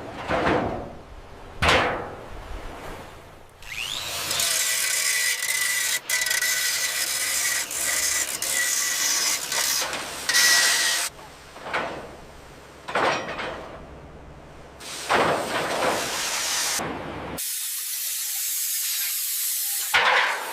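Work sounds cut one after another: a power tool running steadily with a high whine for several seconds, short sudden whooshes between the cuts, and a steady spraying hiss near the end.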